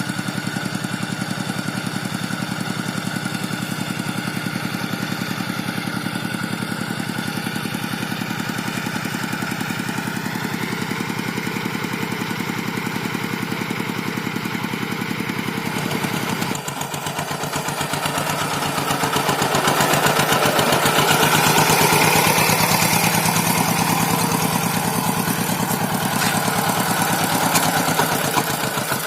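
Rice-paddy tractor engine running steadily while plowing; a bit over halfway through its sound changes abruptly and grows louder and rougher for several seconds before easing.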